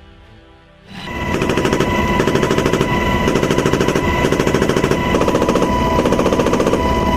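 M240H machine gun firing rapid automatic bursts from a helicopter door mount, starting about a second in and keeping up with hardly a pause.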